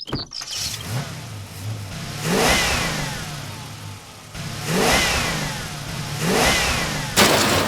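Car engine revving in three surges, each rising in pitch and dying away, then a sudden loud noisy burst near the end.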